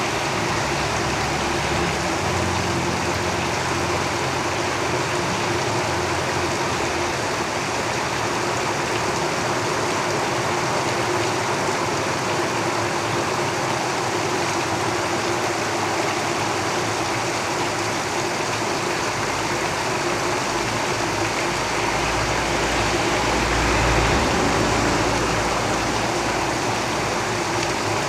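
Steady heavy rain drumming on a tin roof. A passing vehicle's low rumble swells about two-thirds of the way through, peaks, then fades.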